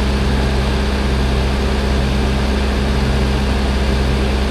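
Heavy diesel engine idling steadily at an even, unchanging pitch.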